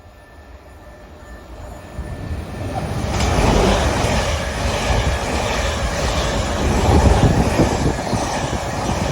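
Two coupled Class 444 electric multiple units passing through the station at speed. The rumble and rush of the train build over about two seconds, then stay loud as the carriages go by.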